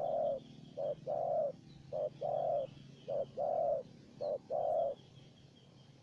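Spotted doves cooing: a short note followed by a longer, rounded coo, repeated about once a second, four times. Faint high chirps of small birds are heard behind them.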